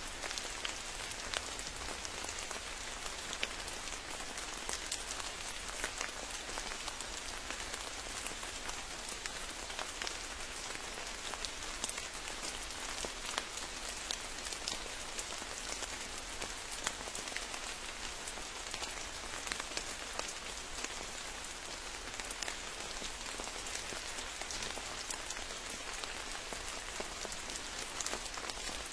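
Steady rain falling, a dense even patter of many drops striking surfaces, with no thunder.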